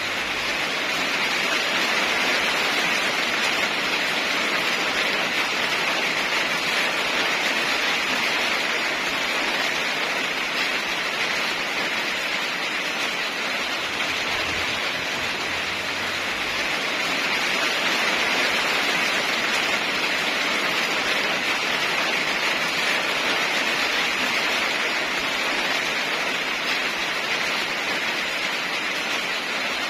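Steady heavy rain, an even hiss of downpour that swells gently in level now and then.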